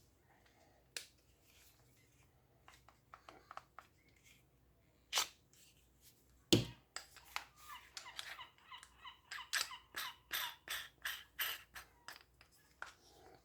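Plastic fan parts being handled and fitted together: scattered clicks and knocks, one louder knock midway, then a quick run of squeaky plastic clicks and creaks over the last several seconds.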